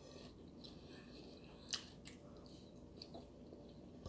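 Faint close-up chewing of cheese-and-beef-loaded tortilla chips, with a few soft crunches, the clearest one a little under two seconds in.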